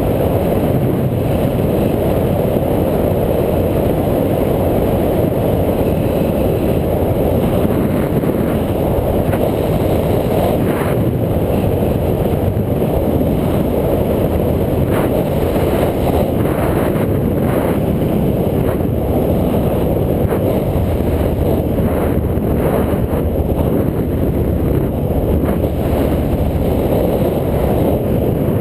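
Steady, heavy wind buffeting and road rumble on an action camera's microphone during a ride, with a few faint clicks midway.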